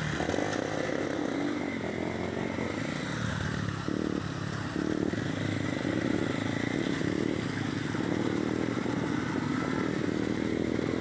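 Honda CB300 motorcycle's single-cylinder engine running on the move, heard from the bike, with wind and road noise over it. The engine note shifts about four to five seconds in.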